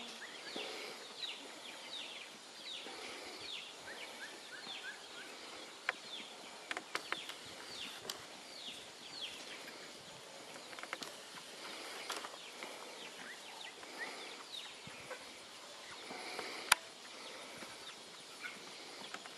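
Birds calling over and over in short, high, downward-slurred chirps, with a few sharp clicks and one loud click about two-thirds of the way through.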